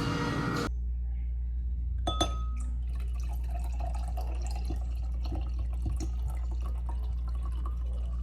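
Light clinks and small taps over a steady low hum, with a sharper double clink about two seconds in.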